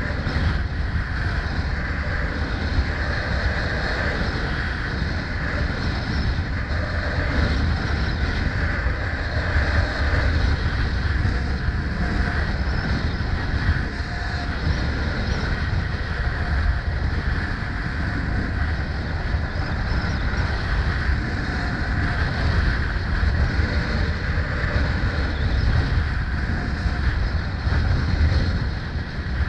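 Steady rush of wind buffeting the microphone during a ride, with a deep rumble and road and traffic noise underneath.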